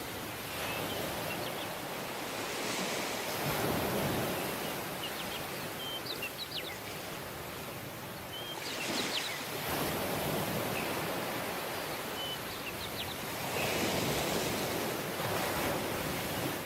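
Waves washing onto a tropical beach, each one swelling and falling away about every five seconds. A few short, high chirps sound between the waves.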